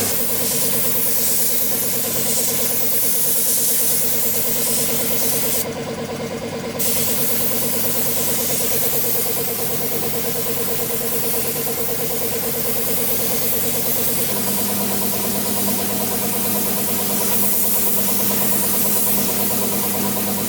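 A motor running steadily, with a short dip about six seconds in and a slight change in its note about two-thirds of the way through.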